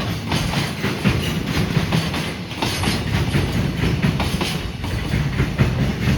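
Freight train rolling past, its wheels clattering over rail joints in a continuous run of clacks over a steady rumble.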